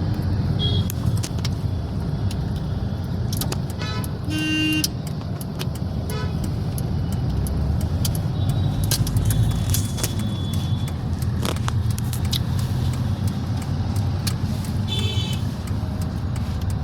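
City road traffic: a steady engine and road rumble, with vehicle horns honking briefly a few times, most clearly about four seconds in and again near the end.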